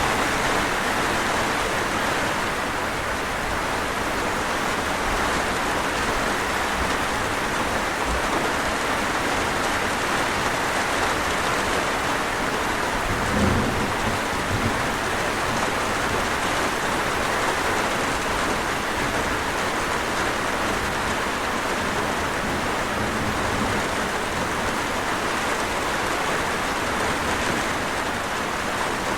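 Steady rain falling, an even hiss of drops on surfaces. There is one brief low thump about halfway through.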